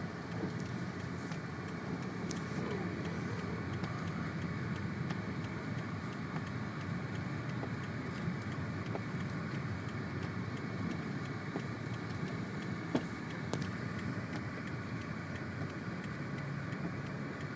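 Steady in-cabin noise of a car driving on a snowy street: the engine and the tyres running through snow, with a faint click about three-quarters of the way through.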